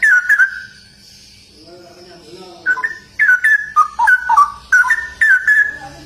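Straw-headed bulbul (cucak rowo) singing loud, liquid whistled phrases in a fast run. One short burst opens, then comes a pause holding a softer, lower warble, and a longer run of gliding notes follows from about two and a half seconds in.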